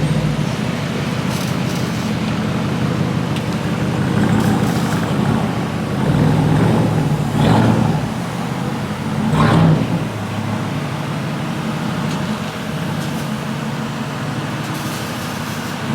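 A car's loud exhaust running steadily, swelling briefly twice, about seven and a half and nine and a half seconds in.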